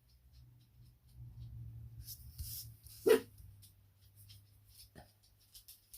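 A dog gives one short bark about three seconds in, with a fainter yip near the end, over a low steady hum and faint small ticks.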